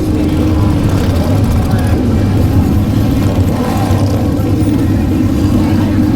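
Motorcycle engine running steadily with a low, even drone, under faint crowd voices.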